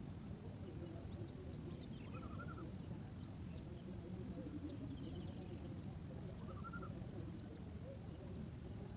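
A bird gives a short call twice, several seconds apart, over steady low rumbling background noise.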